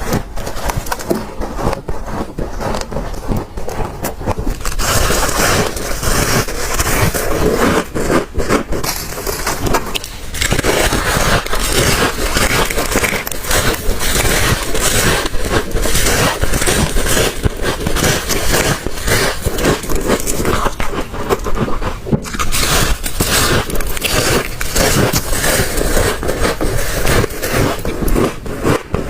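Close-miked biting and chewing of chunks of freezer frost: a dense, continuous run of loud crunches and scrapes.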